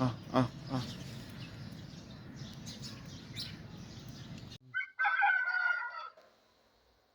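Chickens clucking over a steady background noise; after an abrupt cut, an Aseel rooster crows once, a call of just over a second, and then it goes nearly silent.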